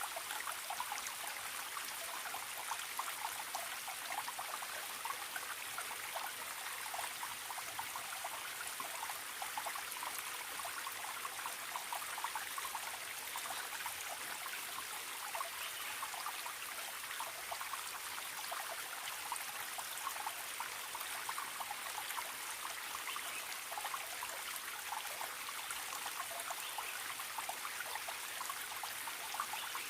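Small forest stream babbling and trickling steadily over stones.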